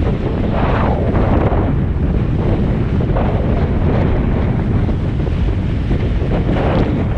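Strong wind buffeting the microphone over rushing water as a Hobie 16 catamaran sails fast in very strong wind; a steady low rumble that swells a few times.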